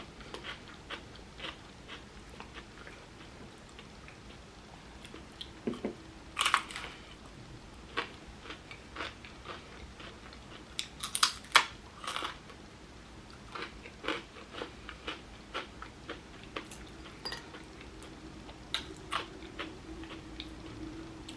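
Close-miked eating: crunchy bites of chips topped with chickpea "tuna" salad, then chewing, with irregular sharp crunches that are loudest about a third and halfway through. A faint steady hum sits underneath from about a quarter of the way in.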